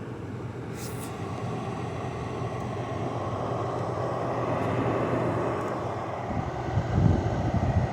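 LG 6000 BTU window air conditioner running with its fan blowing steadily and a low hum, the compressor still off and held back by its three-minute start delay. A brief low rumble comes near the end.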